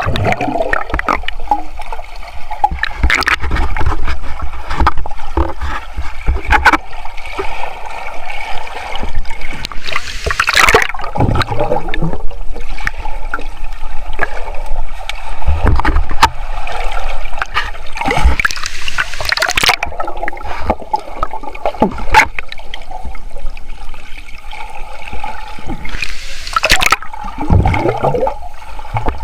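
Waterfall water rushing and splashing, with irregular louder splashes and low bumps throughout.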